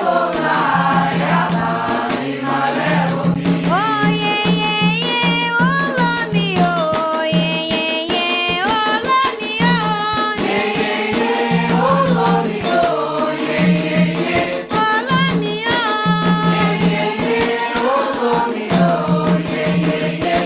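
Candomblé sacred song: several voices singing a Yoruba-language chant over hand drums and other struck percussion.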